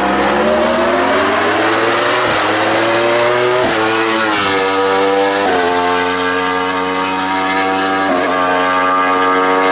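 Race car engine under full throttle, accelerating up through the gears: its pitch climbs and drops back at each of several quick upshifts.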